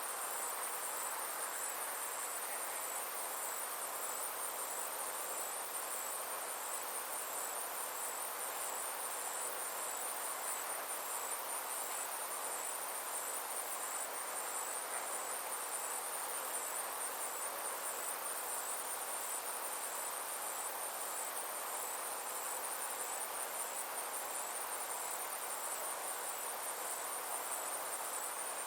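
Insects chirring in a steady chorus, a high-pitched sound that pulses evenly without a break, over a soft steady hiss.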